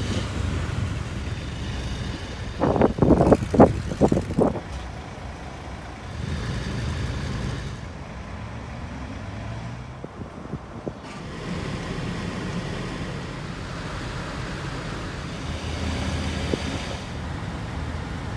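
Exhaust note of a Honda Shuttle Hybrid's 1.5-litre four-cylinder engine through a Mugen muffler, a low rumble that swells and eases in stretches. A few loud knocks sound about three to four seconds in.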